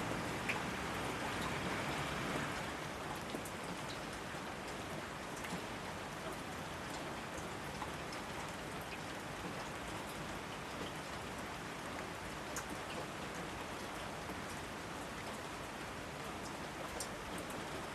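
Steady rain falling, with individual drops ticking sharply here and there over the even hiss. It is slightly heavier for the first couple of seconds.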